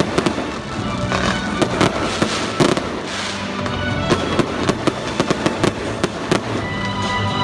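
Fireworks going off in quick succession: repeated sharp bangs and crackling from aerial shells, with music playing underneath.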